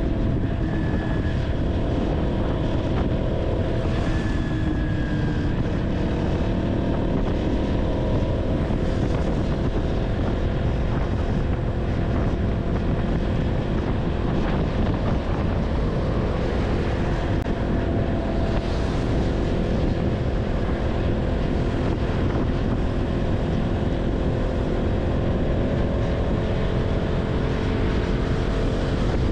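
KTM 200 Duke's single-cylinder engine running at a steady cruise while riding, its drone holding a nearly constant pitch over a steady rush of wind and road noise.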